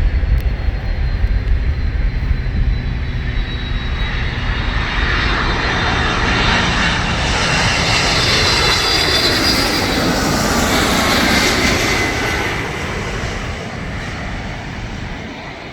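Jet airliner passing close by: a broad engine roar with a high whine that builds, peaks and drops in pitch as it goes past, then fades. Gusty wind buffets the microphone with a low rumble during the first few seconds.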